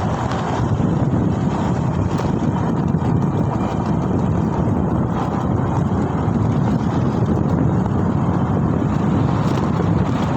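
Wind buffeting the microphone while riding: a steady, rough rushing noise, strongest in the low range, with no engine tone in it.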